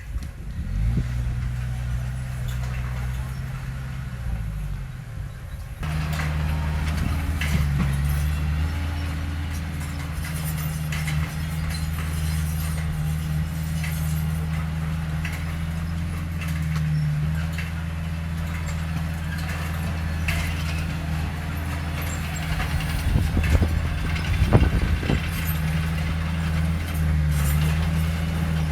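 Diesel engine of heavy earthmoving machinery running steadily. About six seconds in the sound changes abruptly to a louder, fuller engine drone with scattered clanks.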